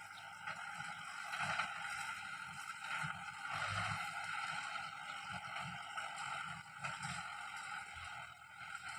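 Kubota M6040 tractor's diesel engine running steadily under load while plowing.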